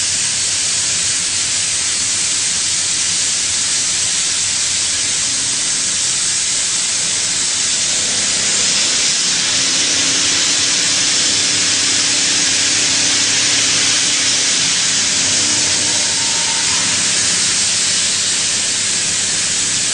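HPMT SE30 indexable plunge milling cutter plunge-cutting in a milling machine: a steady, loud hiss with a faint low hum joining in the middle and getting slightly louder. No chatter or squeal from the cut, which the maker takes as a sign of a vibration-free cut.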